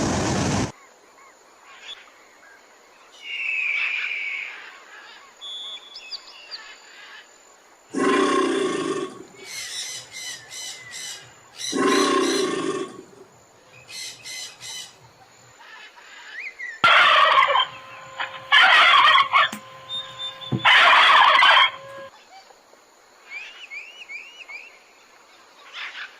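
Domestic fowl calling: a series of loud rattling calls, about a second each, come every few seconds, with faint bird chirps in between.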